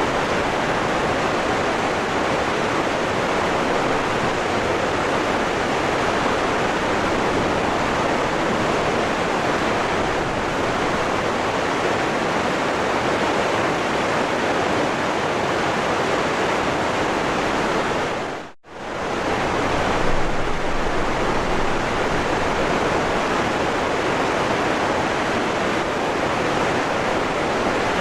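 Waterfall, rushing water making a steady, dense roar. About two-thirds of the way through it dips sharply to almost nothing for a moment, then comes straight back.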